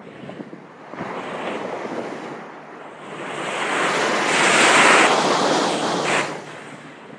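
Rushing wind and sea noise on a moving boat, with wind buffeting the microphone. It swells to a louder surge about four to five seconds in, then drops off abruptly near the end.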